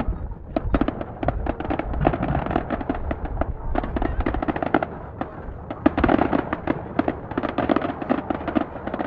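Aerial fireworks display going off: a dense, rapid string of crackling pops and bangs with no let-up, swelling to louder clusters about two and six seconds in.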